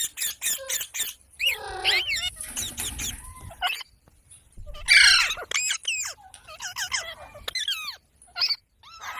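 Parrots calling: a run of short chirps and squawks with quick rising and falling whistles and clicks. The loudest is a harsh squawk about five seconds in.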